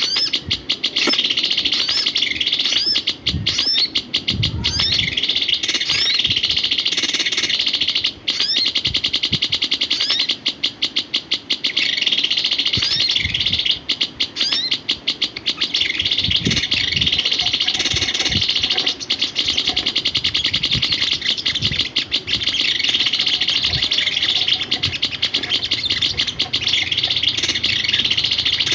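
A small songbird singing a rapid, continuous chattering song of quick chirps and short rising notes, with a few low thumps.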